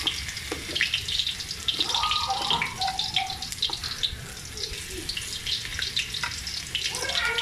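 Carrot cubes frying in hot oil in a wok: a steady crackling sizzle, par-frying the carrots so they cook quickly later.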